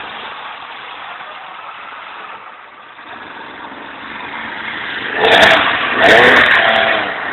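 Speed boat engine running quietly while the boat pulls away from the bank, then opened up about five seconds in, the revs rising loudly.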